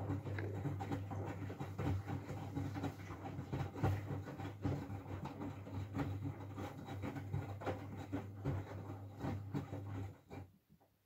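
Miele W433S front-loading washing machine in the heating stage of a 60 °C easy-care main wash, its drum turning: a steady motor hum with the wet laundry and wash water sloshing and clicking. The drum stops about ten seconds in.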